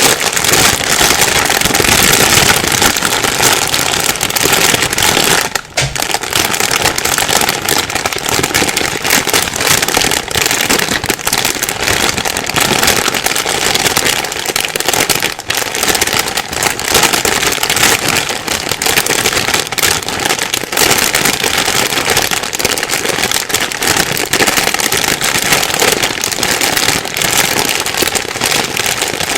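A plastic bag being rustled and crumpled continuously, a dense stream of crinkling crackles, with two brief lulls about six and fifteen seconds in.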